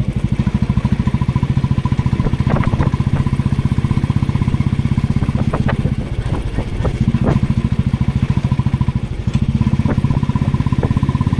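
Motorcycle engine running under way with a steady, rapid low pulsing exhaust beat. It eases off briefly twice, and a few sharp clicks come through in the middle.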